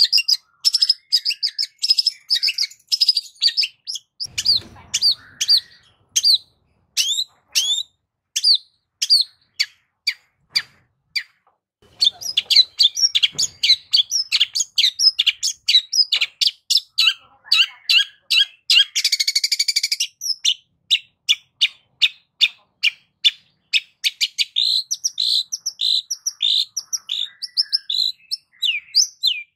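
Long-tailed shrike (cendet) singing a fast, varied song of short, sharp chirps and whistled strokes, with a brief harsh rasp about two-thirds of the way through.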